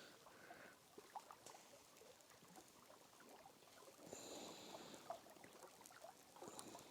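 Near silence, with faint scattered crackles and ticks from the kindling of a newly lit campfire as it catches.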